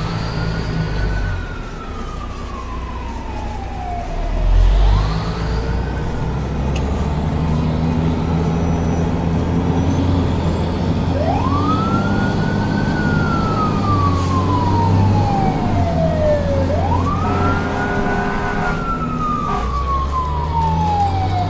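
Wailing emergency-vehicle siren that climbs quickly and then falls slowly, over and over, about four times, over a low engine-like rumble.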